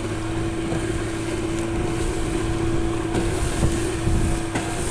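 Strong wind buffeting the microphone in a low rumble, over a steady droning hum.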